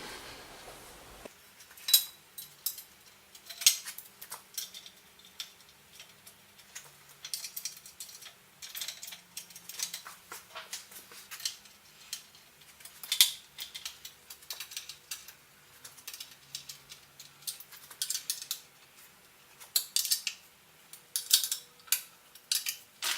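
Irregular light metallic clicks and clinks of metal parts and tools being handled, with a few sharper knocks.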